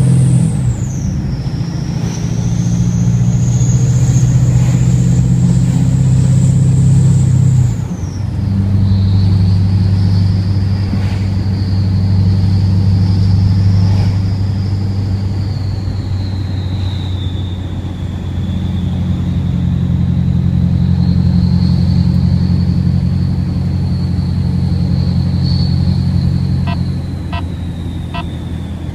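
Ford 6.7 Powerstroke V8 turbodiesel driving, its GT4094 turbocharger whistling in a high thin tone above the engine's rumble. The whistle climbs slowly, drops sharply in pitch about eight seconds in, then sags gradually lower. A few light clicks come near the end.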